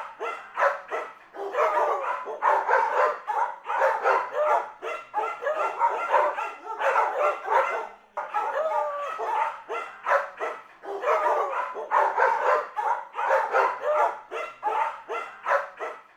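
Dogs barking and yipping in quick, overlapping calls, with a brief pause about eight seconds in.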